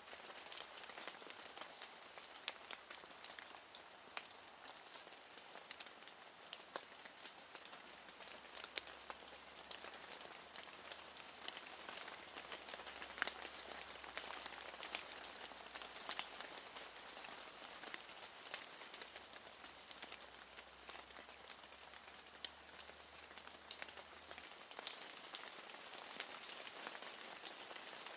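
Steady rain falling, with many small drops tapping on a window pane.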